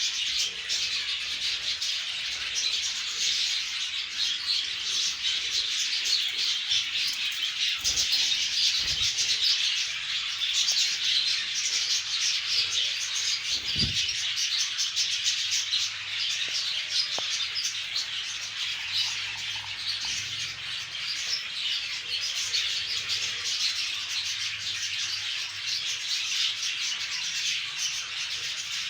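A group of conure parrots chirping and chattering without a break, many short calls overlapping.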